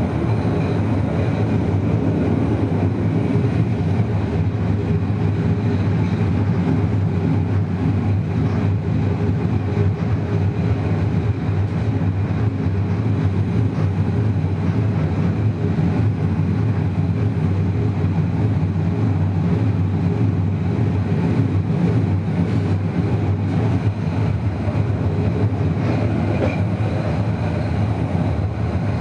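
Passenger train running along the line, heard on board: a steady rumble of wheels on rail and carriage running noise, even in level throughout.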